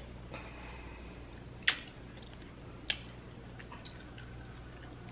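Someone chewing a pickled pineapple bite close to the microphone: quiet wet mouth sounds with two sharp smacks, the loudest about one and a half seconds in and another about a second later.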